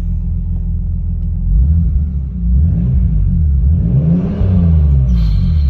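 Toyota Supra's 3-litre twin-turbo 2JZ straight-six idling, then revved twice from about a second and a half in, the second rev climbing higher before the revs fall back toward idle near the end.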